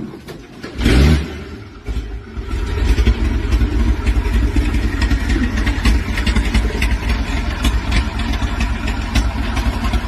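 An engine starts up about a second in, then runs steadily with a low rumble and rattling clicks.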